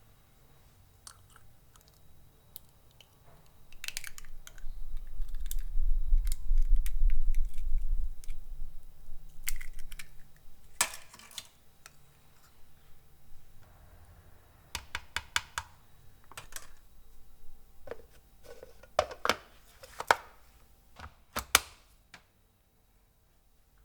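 Food-preparation handling sounds: irregular taps and clicks of utensils and ingredients on a kitchen work surface, with a low rumble and bumping about five to eight seconds in.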